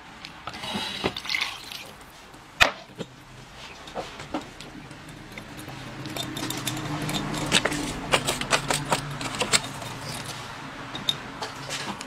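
Wet eating sounds with scattered sharp clicks, clustering thickly in the later part.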